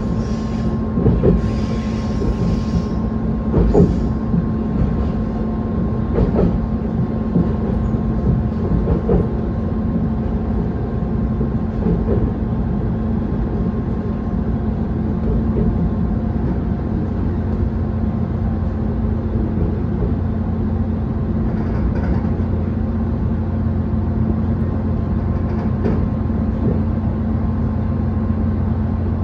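Diesel railcar of the Moka Railway (Moka-14 series) running on single-track rail, heard from inside the car: a steady engine and running drone with wheel clicks over rail joints in the first dozen seconds, then an even rumble.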